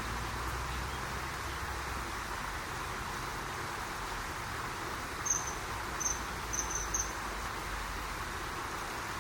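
Common kingfishers calling: five short, high, thin calls in quick succession about five to seven seconds in, over a steady background rush.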